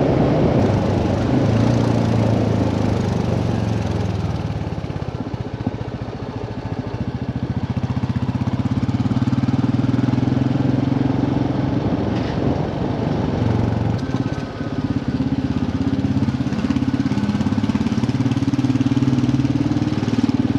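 Royal Enfield motorcycle engine running on the move. It eases off about four seconds in, picks up again a few seconds later, and dips briefly once more later on.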